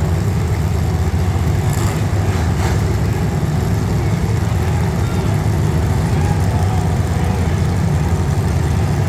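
Engines of demolition derby street stock cars running steadily, with two short knocks about two and three seconds in.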